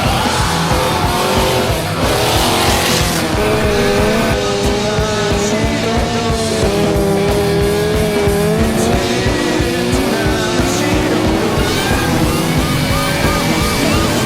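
Car tyres squealing and an engine revving hard through a drift, over rock music with a steady drum beat. The mix drops away suddenly at the end.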